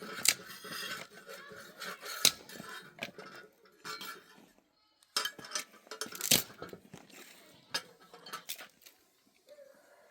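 Dishes and cutlery being handled, with a run of sharp clinks and knocks; the loudest comes about six seconds in.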